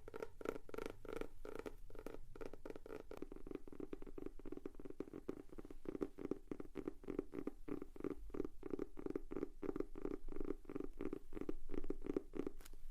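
Fingers tapping quickly and continuously on the cover of a paper notebook, a dull, hollow patter of many light taps a second.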